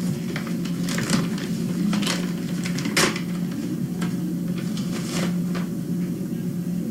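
Paper rustling with irregular light clicks and taps as an envelope is opened and a card handled, over a steady low hum.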